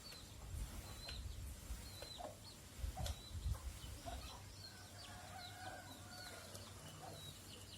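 Faint bird calls: short, high chirps repeating irregularly, with some lower calls mixed in. A few low thumps come about three seconds in.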